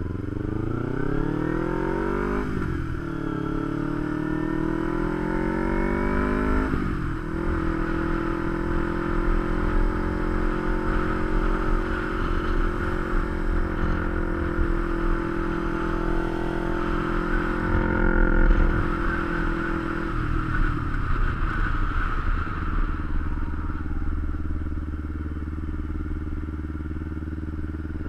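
Kawasaki Ninja 250 parallel-twin engine accelerating through the gears, its pitch rising and dropping back at two upshifts in the first seven seconds. It then holds a steady cruising note and eases off to a lower steady note about twenty seconds in.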